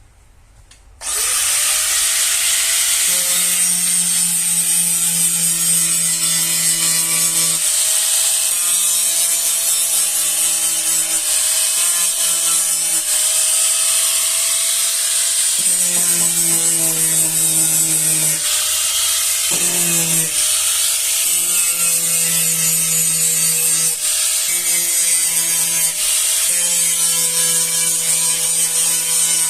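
A handheld electric power tool spins up about a second in and runs continuously with a strong high hiss, its tone dropping and returning every few seconds as it is worked against the metal.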